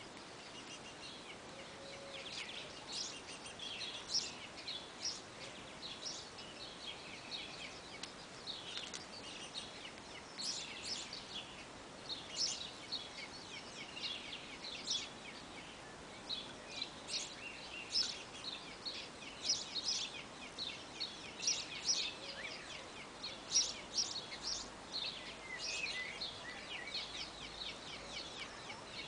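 Small birds chirping: a busy, continuous run of short, high calls from several birds at once, over a faint steady hiss.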